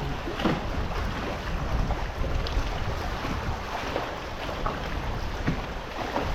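Wind buffeting the microphone on an open boat: an uneven low rumble with a few faint knocks.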